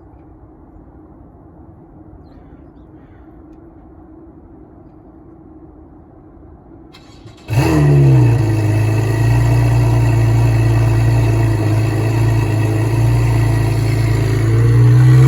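A faint steady hum, then about seven and a half seconds in a Porsche 981 Cayman flat-six with catless titanium headers and exhaust fires up suddenly and loudly and settles into a high cold-start idle, its pitch rising briefly near the end.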